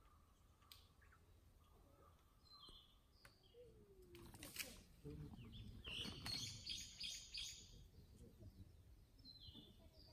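Faint forest birdsong: short high chirps and calls recur, with a louder spell of rapid chirping about six seconds in. A brief rustle comes a little after four seconds.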